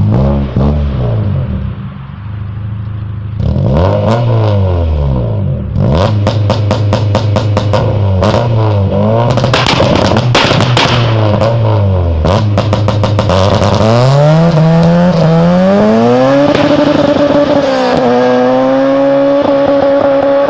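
A performance car engine revved hard several times, its pitch rising and falling with each blip, with rapid exhaust pops and crackles as the revs drop. Near the end the revs climb and are held steady at a high pitch.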